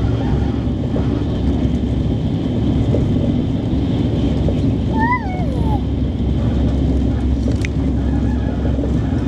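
Alfa Pendular (Pendolino) train running, a loud steady rumble, with a short falling squeal about five seconds in and a single sharp click a little later.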